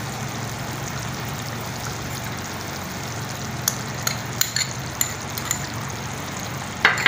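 Chicken pieces frying in oil in a wok with a steady sizzle, over a low hum, as tomato ketchup is poured in. From about halfway a metal spoon scrapes and taps against the glass bowl several times, with a louder clink near the end.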